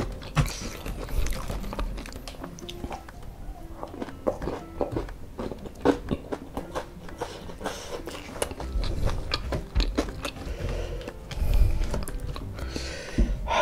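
Chewing and crunching of fried chicken with crispy kremes crumbs (ayam goreng kremes), with many small, sharp mouth clicks and crackles.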